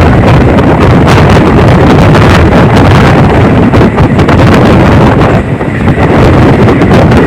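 A moving passenger train's running rumble, buried under heavy wind buffeting on the microphone. The wind eases briefly about five and a half seconds in.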